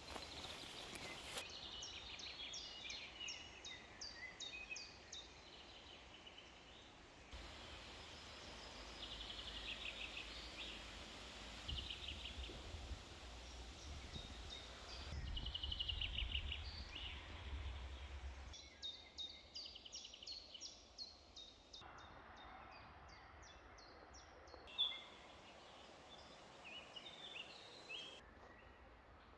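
Several small birds singing and calling, many short high chirps and trills over a faint steady hiss, with a faint low rumble through the middle stretch.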